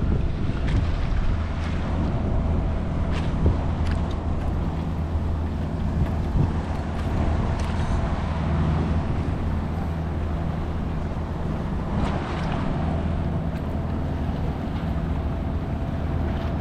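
Steady low rumble of wind on the microphone over open water around a kayak, with a few short knocks.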